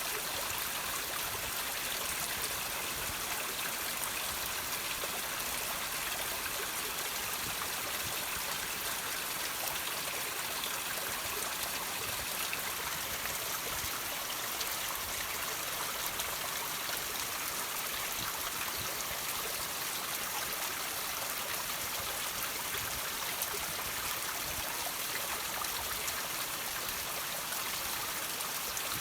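Water trickling and dripping off rocks: a steady, even rush of running water that does not change.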